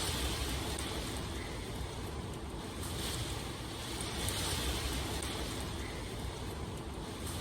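Steady rain ambience: an even hiss with a low rumble underneath, swelling and easing every second or two.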